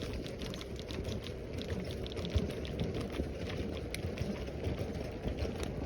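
Bicycle rolling along a crushed-stone rail trail: a steady low rumble of tyres and wind with many small ticks and rattles from the stones and the bike.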